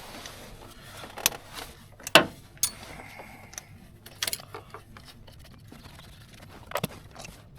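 Metal hand tools clinking and knocking: a handful of scattered sharp clicks as a socket and ratchet are handled and fitted, the loudest about two seconds in.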